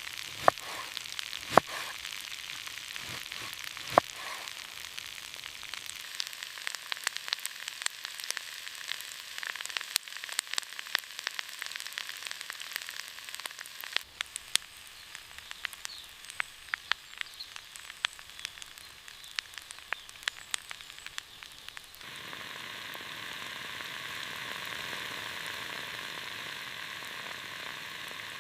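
Food sizzling in a hot pan over a wood fire, with frequent sharp pops and crackles. A little over two-thirds of the way through, it gives way to a steadier, fuller sizzle.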